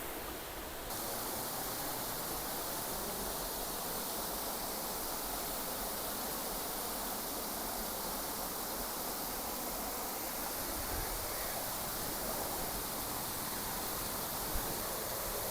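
Kocaçay waterfall: a steady, even rush of falling water, turning brighter in the highs about a second in.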